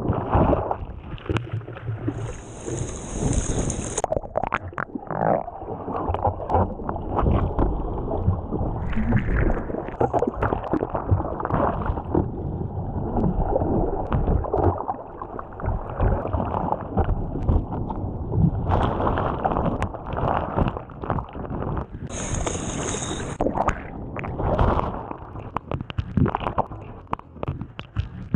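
Surf water sloshing, gurgling and splashing against the camera, muffled, with irregular knocks and buffeting as the camera is tumbled in the waves. A brief high hiss comes twice, a couple of seconds in and again near the end.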